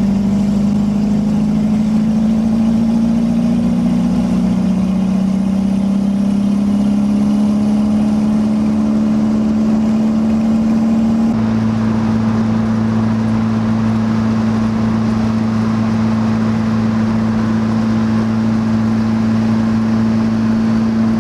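Toyota 3S-GTE turbocharged four-cylinder with an open downpipe, heard from inside the car while driving: a loud, steady engine drone. Its note rises slightly over the first few seconds; about halfway through a deeper note joins and it holds steady at cruising speed.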